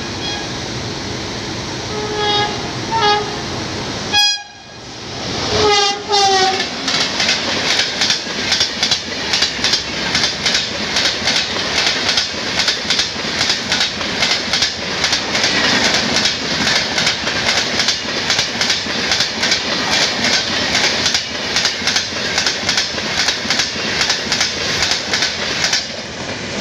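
WAP-7 electric locomotive horn sounding two short blasts and then longer ones, the last dropping in pitch as the locomotive passes. The express's coach wheels then clatter over the rail joints in a fast, even clickety-clack as the train runs through at speed, dying away near the end as the last coach goes by.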